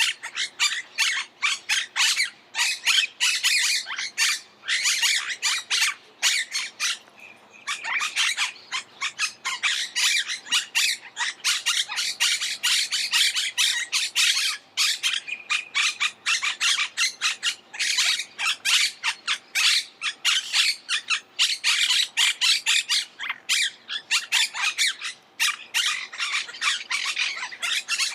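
Monk parakeets squawking, a dense run of harsh, rapid calls with brief lulls.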